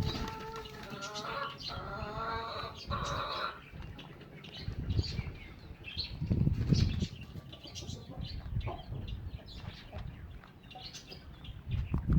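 Hen in a pen: a drawn-out, wavering call for the first few seconds, then scattered taps and rustles as it moves about the feed.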